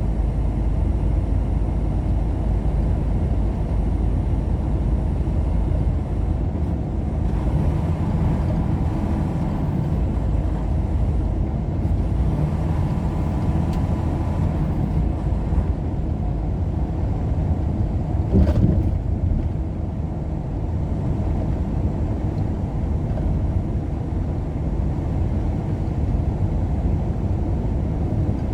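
Steady low rumble of road and engine noise from a moving car, heard from inside the vehicle, with a single short knock about eighteen seconds in.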